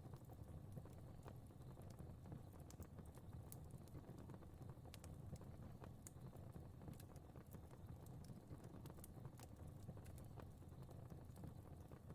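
Faint crackling wood fire: irregular small pops and snaps scattered over a steady low rumble of burning.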